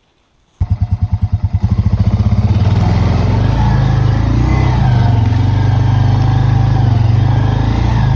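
A vehicle's engine running while driving, cutting in suddenly about half a second in. It pulses at first, then settles into a steady loud drone.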